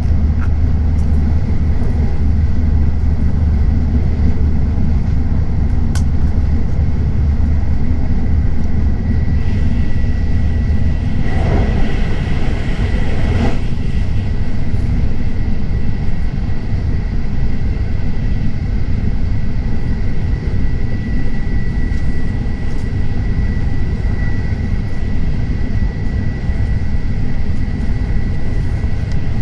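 Tokaido Shinkansen train running at speed, heard from inside the car: a steady rumble and rush with a faint steady high whine. A louder rush swells for about two seconds roughly twelve seconds in.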